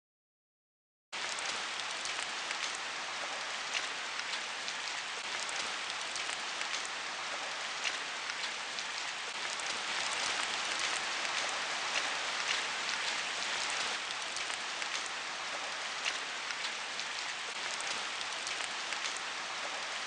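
Heavy rain falling steadily, a constant hiss dotted with many sharp ticks of single drops striking close by. It starts after about a second of dead silence.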